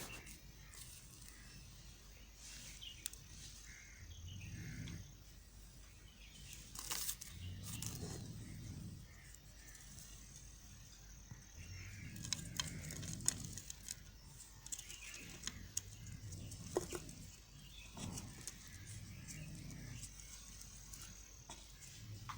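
A knife cutting into a bar of white soap: soft scraping and crumbling with scattered crisp clicks at irregular intervals.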